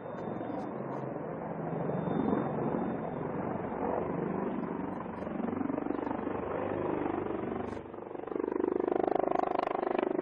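Helicopter rotor and engine noise, steady and dull. About eight seconds in it cuts to a second stretch with a steady humming engine tone.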